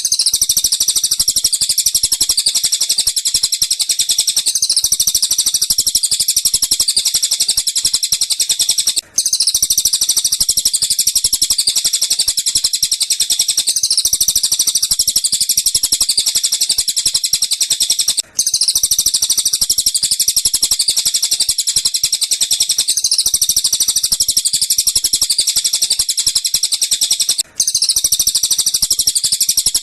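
Looped recording of tengkek buto and cililin bird calls, a rapid, high-pitched run of chirps used as a master track for training lovebirds to copy. The same roughly nine-second clip repeats, with a brief break between passes.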